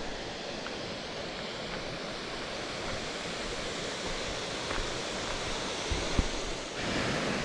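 Steady rush of falling water, an even noise that grows a little louder near the end, with a soft thump or two.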